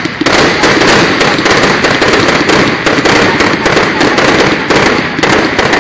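Aerial fireworks going off in rapid succession: a loud, dense barrage of bangs and crackling, several reports a second.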